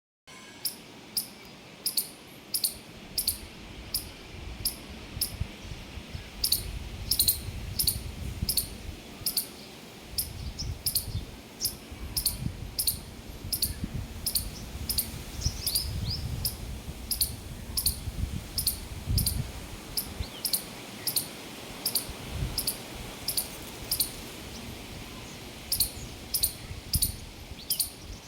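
A small bird repeating a short, high chirp about twice a second, pausing now and then. A low, uneven rumble runs underneath.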